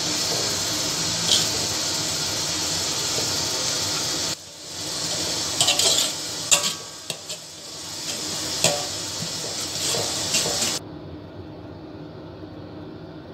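Blended chili spice paste sizzling in hot oil in a pan, steady at first. A spatula then scrapes and clinks against the pan several times as the paste is stirred. Near the end the sound drops to a much quieter background.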